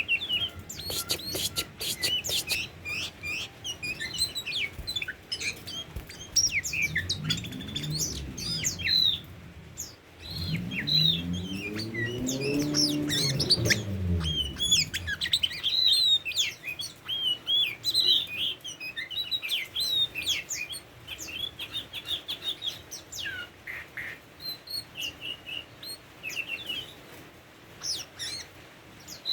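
Oriental magpie-robin chirping in quick, varied short notes throughout. A low droning sound rises and falls in pitch between about seven and fifteen seconds in.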